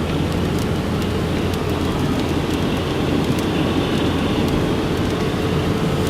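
Steady road and engine noise of a moving car heard from inside the cabin: a constant low rumble with a faint steady hum above it.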